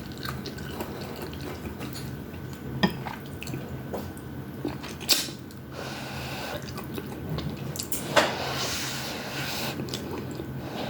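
Close-up eating sounds of udon noodles, cabbage and meatballs: moist chewing and mouth sounds, with a few sharp clicks of utensils against the bowl and a longer wet, noisy stretch after the last click.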